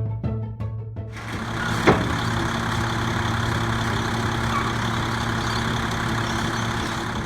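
Brief music, then about a second in a machine starts running steadily with a strong hiss over a low hum. A single sharp knock comes about two seconds in.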